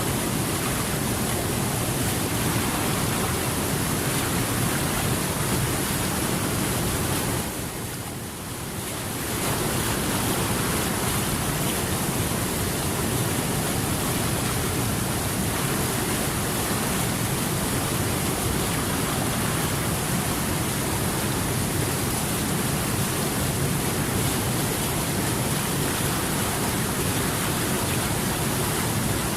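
Steady rushing water, a dense even wash of noise that dips briefly about eight seconds in before returning to full level.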